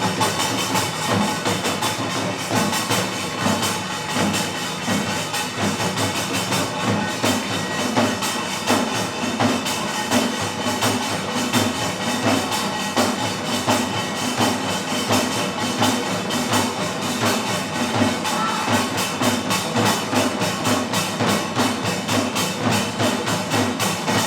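Percussion-led ensemble music: rapid, dense drum strokes with a woody knock among them, played without a break and growing busier in the second half.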